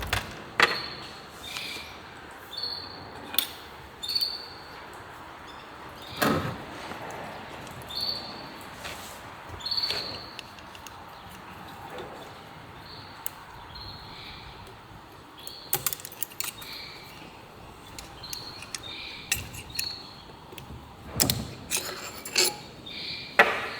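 Irregular clinks, clicks and knocks of hand tools and metal parts being handled during a Honda 110cc engine rebuild, with a busier cluster of knocks near the end.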